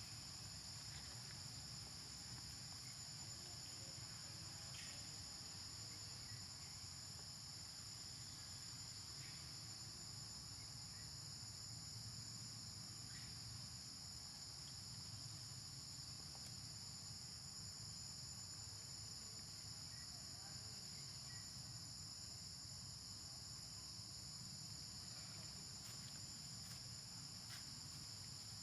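Steady, high-pitched chorus of insects such as crickets or cicadas, droning without a break, over a low background rumble with a few faint clicks.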